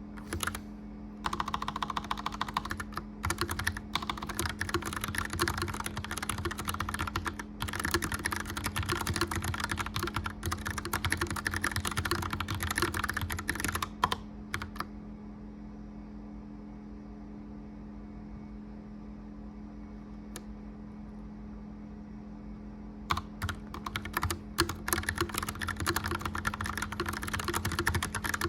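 Clicky mechanical keyboard being typed on in quick runs, stopping for several seconds midway before resuming, over the steady hum of a gas fireplace fan.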